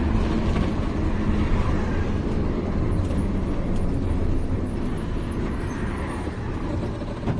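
Loaded 14-wheel heavy truck driving on the road: a steady engine drone with road and tyre noise.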